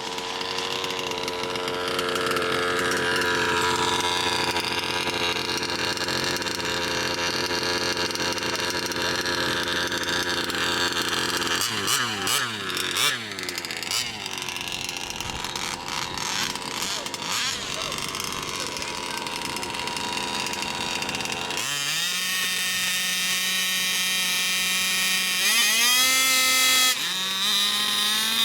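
Radio-controlled car's small engine buzzing at high revs, rising and falling in pitch around twelve seconds in. It steps to a steady higher note later on and revs higher again near the end.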